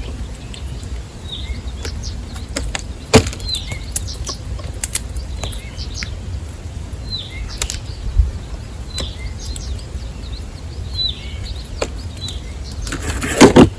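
A small bird calling over and over with short chirps that drop at the end, about one a second, among a few sharp taps. A loud rustling burst comes near the end, over a steady low rumble.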